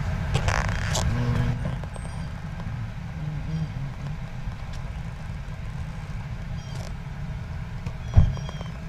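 A vehicle engine idling steadily, with one sharp knock near the end.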